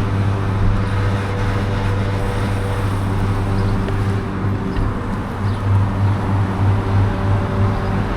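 Two-stroke motocross bike engine idling with a steady low drone. From about five seconds in the idle turns lumpy, pulsing a few times a second.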